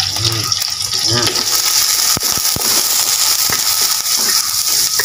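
Garlic, lemongrass and green chillies sizzling in hot oil in a stainless steel wok, a steady hiss, as a wooden spatula stirs them, knocking against the pan several times in the middle of the stretch.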